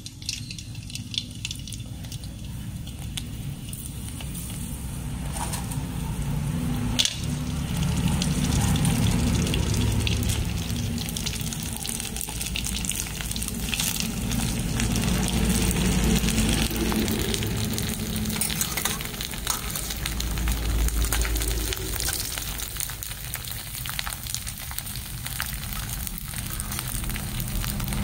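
Dried crackers deep-frying in hot oil in an aluminium wok, sizzling and crackling as they puff up. The sizzle grows louder after a few seconds as more crackers go into the oil, with a single sharp click about seven seconds in.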